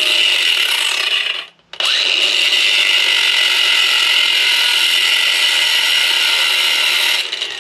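A handheld power tool grinding into the microwave oven transformer's winding wire to expose the metal under the coating and test whether it is solid copper or copper-coated aluminum. It runs steadily, cuts out briefly about a second and a half in, then runs again until shortly before the end.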